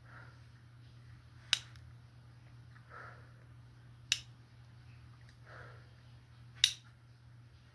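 Three sharp snaps about two and a half seconds apart, each alternating with a soft swish, over a steady low hum.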